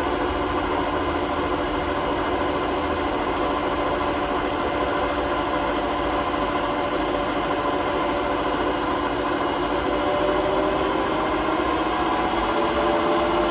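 Hotpoint WMA32 washing machine spinning at about 800 rpm, a steady hum with a noisy rumble; its drum bearings are worn out and the drum rubs on the bearing seal. The pitch creeps up slightly near the end.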